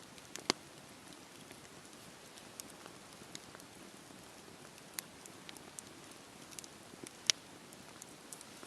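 Campfire burning with a steady soft hiss and scattered sharp crackles and pops of burning wood, the loudest about half a second in and just after seven seconds.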